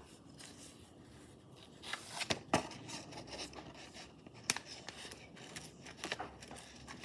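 Plastic blind bag and scissors being handled: light crinkling and rustling with a few sharp clicks, the loudest about two and a half seconds in and again about four and a half seconds in.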